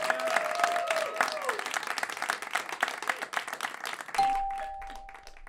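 Live studio audience applauding and cheering, the clapping dying away about four seconds in, when a single ringing tone sounds and then fades.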